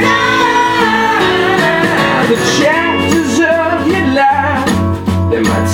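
A live rock band playing, with guitar and a sung melody over a steady full-band accompaniment.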